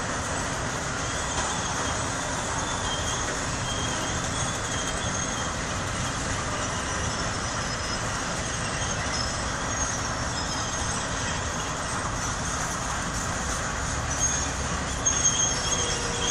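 Freight train cars rolling past steadily, the even rumble of wheels on rail, with faint high squeals coming and going. A few louder knocks near the end.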